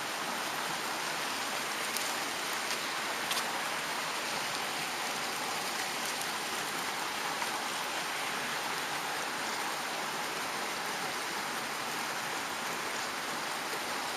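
Steady rushing of a mountain stream, with a couple of faint ticks about two and three seconds in.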